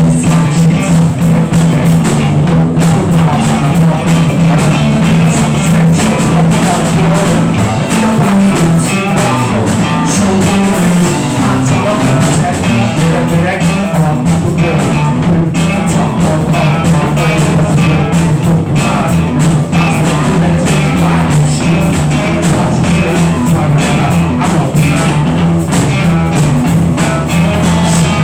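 Loud rock music, with drums and guitar over a sustained low bass note and some singing.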